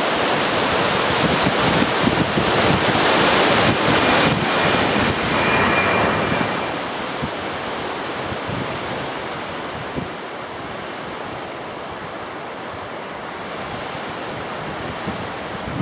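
Strong gusty wind rushing and buffeting the microphone, loudest at first and easing off after about six seconds.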